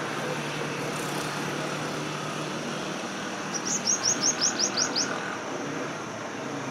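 A small bird calls a quick, high trill of about nine rapid downward-sweeping notes, starting about halfway through and lasting about a second and a half, over a steady background hiss.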